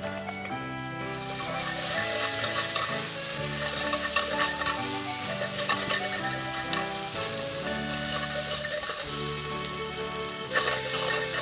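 Food sizzling as it fries in a pan, starting about a second in and easing briefly before picking up again near the end, over background music.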